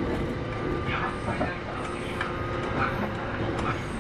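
Kintetsu 8810 series electric train running, heard from inside the car: a steady rumble of wheels on track and running gear, with a few steady tones from the traction equipment.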